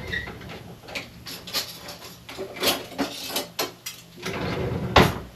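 Kitchen handling noise: a run of clicks, knocks and clatter from dishes and utensils being moved about, with the loudest knock near the end.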